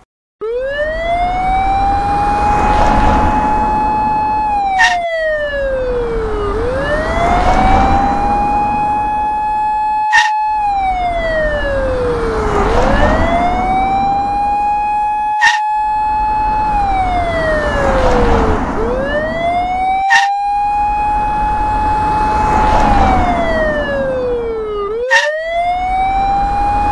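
Police siren wailing in slow cycles: each one rises quickly, holds a high tone for about two seconds, then slides down before rising again. Every five seconds or so there is a short click and a momentary dropout, where the siren sound effect loops.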